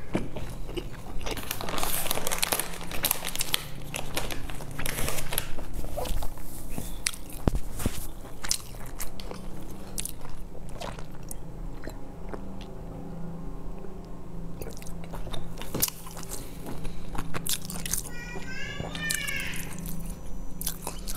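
Close-miked biting and chewing of crisp-bottomed pan-fried dumplings, with wet mouth smacks and crunching, over a low steady hum. A short run of high chirps comes near the end.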